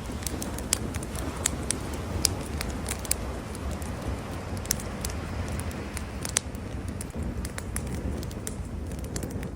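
Wood campfire crackling, with irregular sharp pops, some louder than others, over a steady low rumble.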